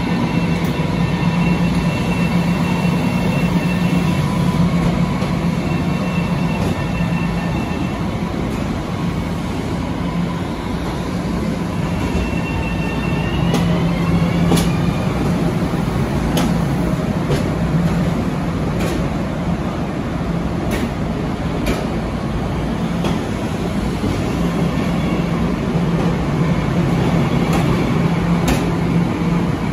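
Long Island Rail Road M7 electric train pulling out of the station: a steady low hum with high motor whines that rise in pitch as it picks up speed, and scattered sharp clicks from about halfway through.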